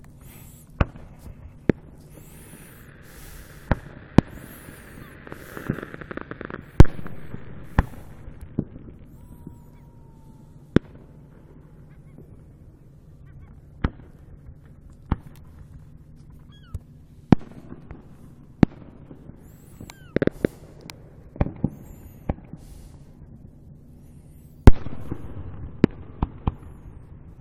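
Distant fireworks shells bursting about a kilometre away across open water: irregular sharp bangs, a few every several seconds. The loudest come about seven seconds in and near the end, each followed by a spell of crackling.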